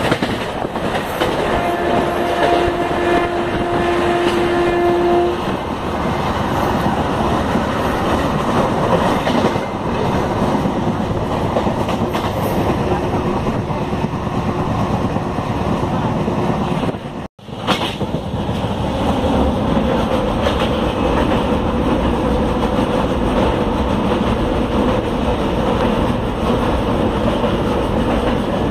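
Passenger train running at speed, heard from inside a coach by the window: a steady rumble of the wheels on the rails. About two seconds in, a train horn sounds one steady note for about three and a half seconds. The sound cuts out for an instant a little past halfway.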